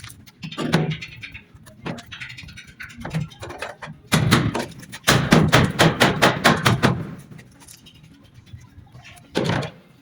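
A run of knocks and thuds, coming in clusters, with a fast dense series about four to seven seconds in and another sharp burst near the end.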